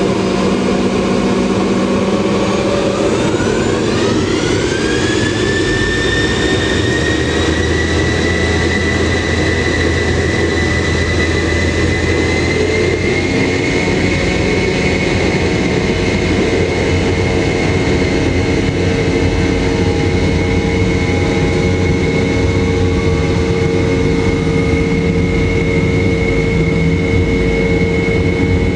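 Boeing 717's Rolls-Royce BR715 turbofan engines spooling up for takeoff, heard from inside the cabin: a whine rises in pitch a few seconds in, then holds steady over a loud, constant rumble at high thrust.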